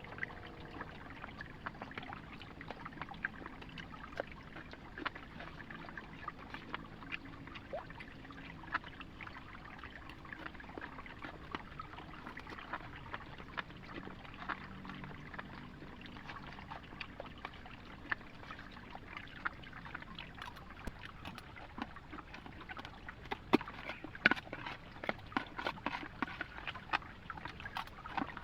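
Rain water dripping and trickling, with a steady wash of water under many irregular sharp drips; the drips grow louder and more frequent near the end.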